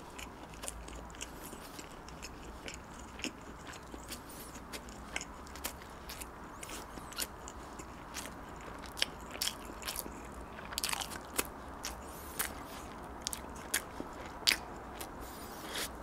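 Close-miked chewing of bread with the mouth closed: irregular wet mouth clicks and smacks with slight crunches, a cluster of them a little past the middle and the loudest click near the end.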